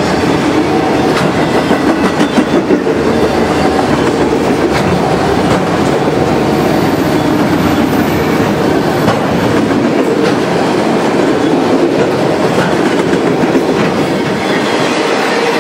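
Freight train of enclosed autorack cars rolling past at steady speed: a continuous rumble of steel wheels on rail, with sharp clacks as the wheels cross rail joints.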